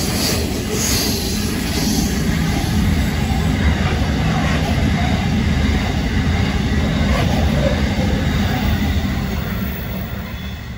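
Grain hopper wagons of a freight train passing at speed: a steady, loud rumble of wheels on rail that fades near the end as the last wagon goes by.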